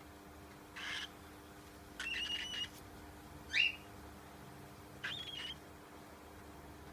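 Baby cockatiel calling four times, short raspy calls about a second and a half apart, with the third the loudest.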